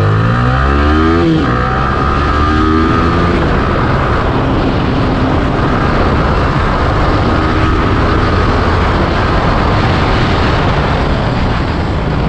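Yamaha R15 V3's single-cylinder engine pulling away and revving up through the gears: the pitch climbs, drops at a shift about a second and a half in, climbs again, then the bike runs on steadily at speed.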